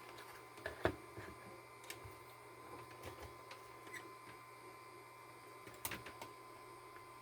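A few faint clicks and taps, a double click about a second in and another cluster near six seconds, over a steady faint high tone.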